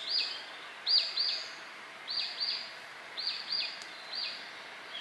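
A small bird calling: short, high, arched notes repeated over and over, mostly in quick pairs about once a second, over a steady outdoor hiss.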